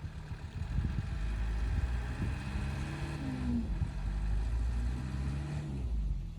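Heavy truck engine revving up from idle and running hard for several seconds, its pitch climbing and then falling, before it drops back to a throbbing idle near the end.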